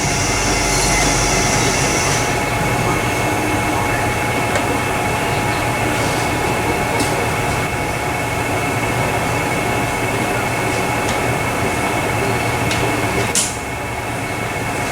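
Steady mechanical drone and rush with a faint whine, broken by a few light clicks. The drone drops away about thirteen seconds in.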